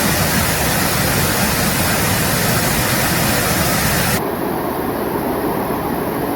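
Mountain stream water rushing steadily; about four seconds in the sound changes abruptly to a duller, lower rush.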